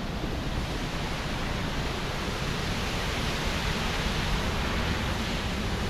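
Steady rush of a waterfall and the river below it, an even hiss of falling water.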